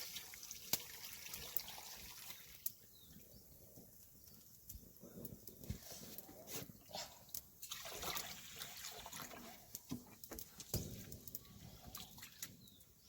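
Faint water dripping and trickling: irregular sharp drops falling at uneven intervals.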